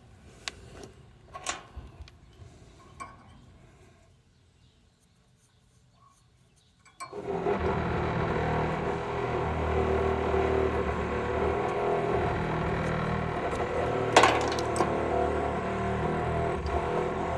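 A few light metallic clicks and taps, then a power press tool starts about seven seconds in and runs steadily, with a sharp click near the end.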